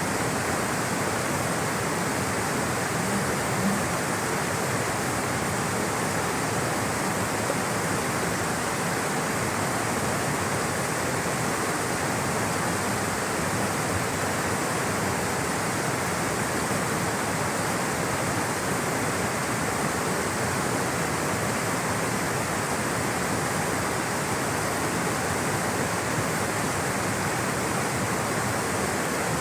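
Rushing water flowing steadily, an even, unbroken roar.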